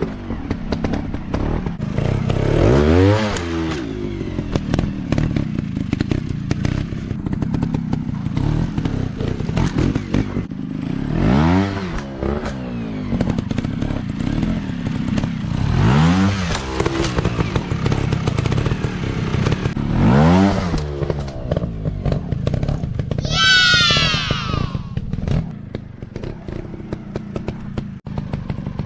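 Small dirt bike engines revving in repeated surges, the pitch climbing and dropping every few seconds as the throttle is opened and closed, with a high, falling whine about three quarters of the way through. Scattered clicks and clatter run under the engine noise.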